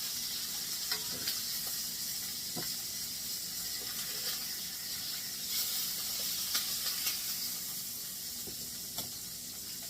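Chicken thighs sizzling in hot oil in a skillet, a steady hiss. A few sharp clicks of metal tongs against the pan come through as the thighs are lifted out.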